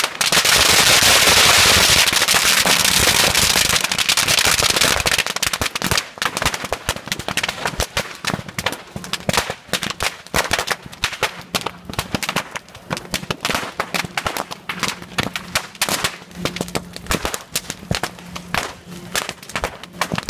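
Strings of firecrackers going off: a dense, loud barrage of cracks for about the first five seconds, then thinning into rapid, scattered bangs.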